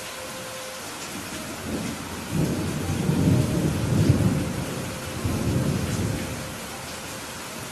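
Steady rain falling, with a low roll of thunder that swells about two seconds in, peaks, and dies away near the end.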